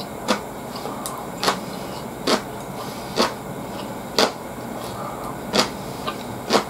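Close-miked chewing of a crisp vegetable, a sharp crunch about once a second.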